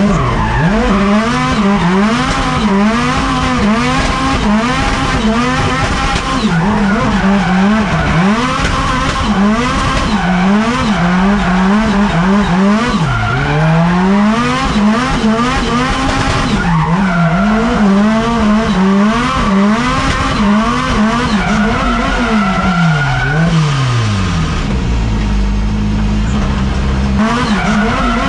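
Drift car's engine revving hard, its pitch rising and falling over and over as the throttle is worked, with tyres squealing and skidding under the slides. For a few seconds near the end the engine holds a steadier, lower note before revving up again.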